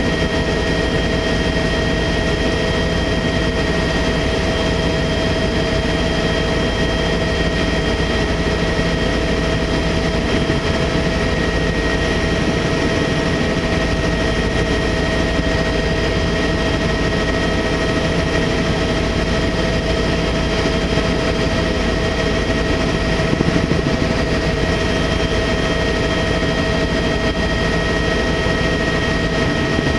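Helicopter in steady flight: a constant loud rumble with several steady whining tones over it.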